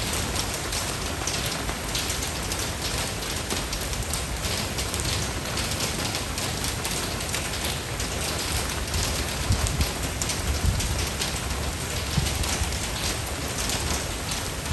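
Steady rain falling on a surface, with many individual drops pattering through it and a low rumble underneath that grows a little stronger in the second half.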